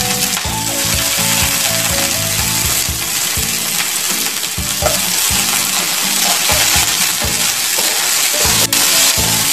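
Chopped onions and garlic sizzling in hot oil in a nonstick frying pan, stirred with a wooden spatula near the end.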